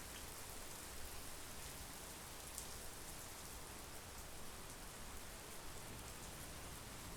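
Steady monsoon rain falling, an even hiss with a few faint drop ticks.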